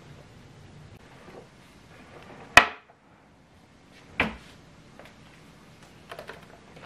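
Two sharp knocks about a second and a half apart, the first the louder, followed near the end by a few faint light clicks.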